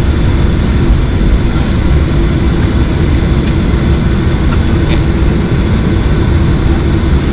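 Boeing 737-800 cabin during the takeoff: its CFM56-7B engines at high thrust, a loud, steady, deep rumble with a constant hum through it. A few faint rattles or clicks are heard about halfway through.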